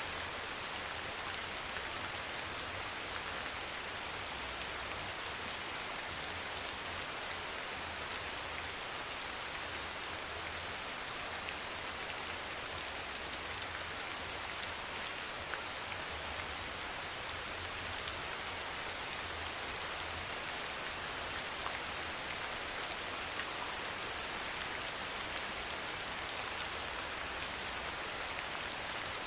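Steady soft rain falling: an even hiss dotted with small drop ticks.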